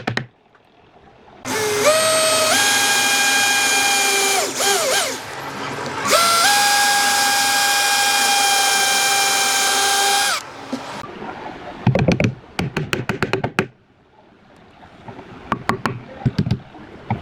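Handheld electric power tool motor spinning up with a rising whine and running steadily, briefly slowing and stopping, then running again for about four seconds before winding down. Several sharp clicks or knocks follow near the end.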